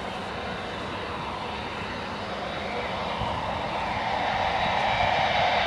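Jet engines of an Airbus A380 airliner, a steady rushing roar that grows louder over the last couple of seconds.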